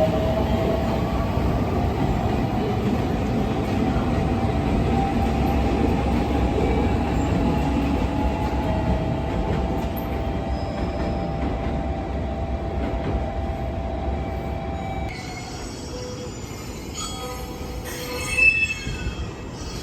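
Train running on the rails: a steady rumble with several whining tones, the rumble falling away about three-quarters of the way through. Short high squeals follow, with one loud screech near the end.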